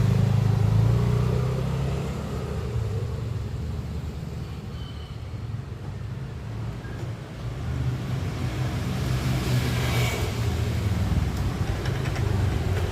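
A motor vehicle's engine and road noise, a low steady rumble that eases after about two seconds and builds again from about eight seconds in.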